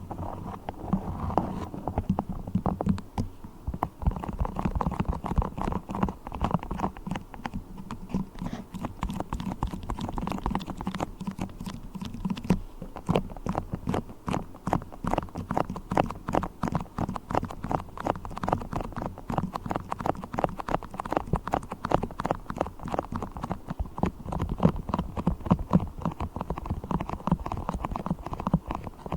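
Fingers working beeswax: a fast, irregular run of small sticky taps and clicks.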